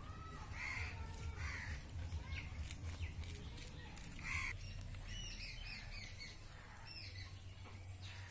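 Birds calling outdoors: a few short harsh calls in the first half, then a quick run of chirps from about five to seven and a half seconds in, over a low steady hum.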